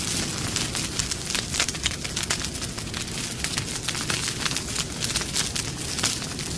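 Wood campfire burning steadily with dense crackling, many quick sharp pops over a low rumble of flame.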